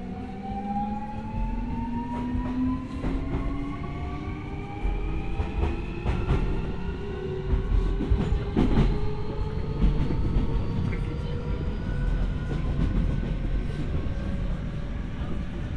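Interior running sound of a Keio 1000 series (3rd-batch) electric train accelerating: the VVVF inverter's whine climbs slowly and steadily in pitch over the rumble of the wheels, with occasional clacks as the wheels cross rail joints. This batch's non-synchronous inverter tone is pitched lower than on the earlier batches.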